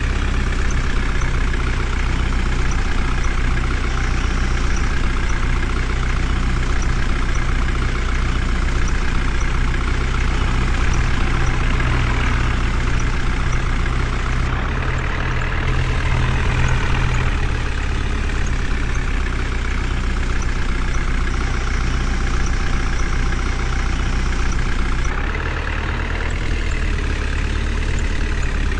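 Heavy diesel vehicle engine running steadily at low speed, with a small dip in level a few seconds before the end.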